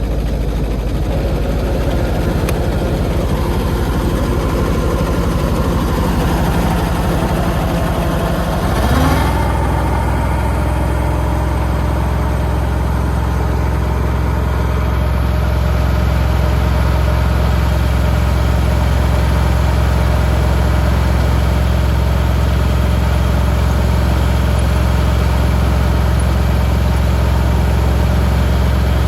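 Combine harvester engine running steadily. About nine seconds in there is a short knock and the engine note shifts slightly, then it runs on evenly.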